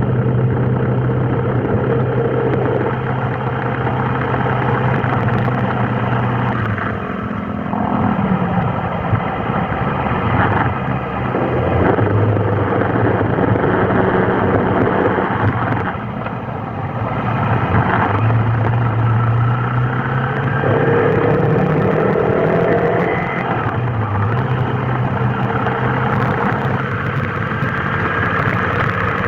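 Vehicle engine in stop-and-go traffic: a steady idling hum that fades out and returns, with a few rising revs as it pulls away.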